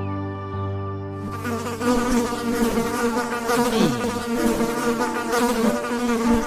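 A flying insect buzzing, starting about a second in, its pitch wavering up and down.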